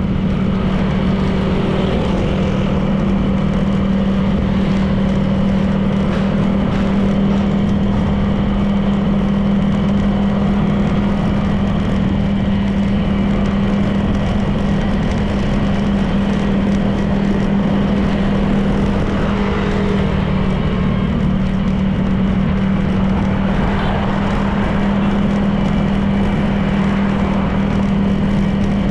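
Honda PCX 160 scooter's single-cylinder engine running at a steady cruise: a constant drone over steady road noise.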